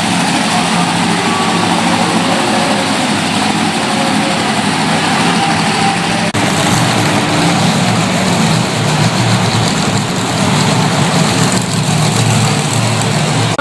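Monster truck engines running loud and steady, with a brief drop in the sound about six seconds in.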